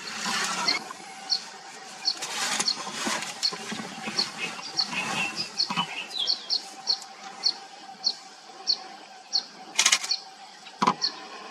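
Outdoor bird calls: a short high chirp repeated about twice a second, over a faint steady hum, broken by a few loud rustling bursts near the start, around two to three seconds in, and near the end.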